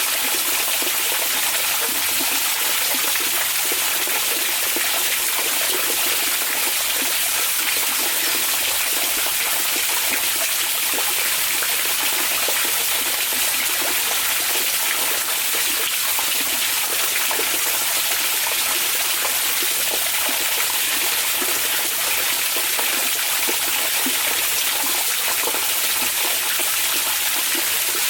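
Hot spring water pouring and trickling steadily into a bath, an even, unchanging rush with a fine splashing texture.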